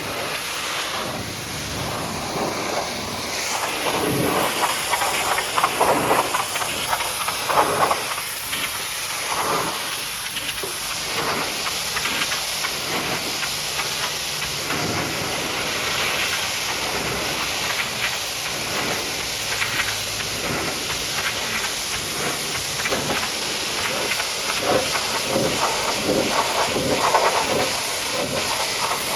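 High-pressure water jet spraying against a truck's bodywork: a steady hiss of spray that surges and thins unevenly as the jet is swept over the surfaces.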